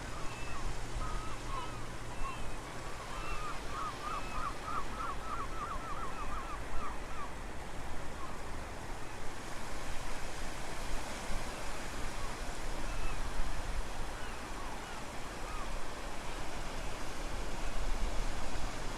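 Steady wind and surf noise at the shore, with wind rumble on the microphone. Over it, small birds chirp now and then, and a quick run of about a dozen chirps comes about three to five seconds in.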